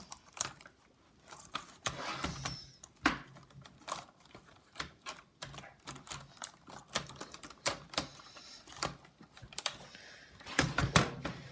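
Irregular clicks and taps of plastic and metal laptop parts being handled and fitted together during reassembly, some sharper than others.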